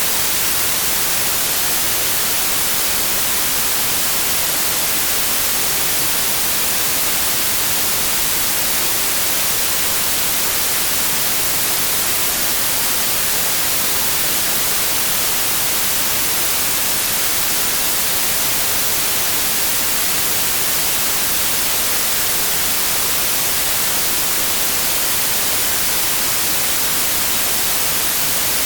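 Synthesised white noise: a steady, unchanging hiss spread evenly across all pitches, with no rhythm or tones.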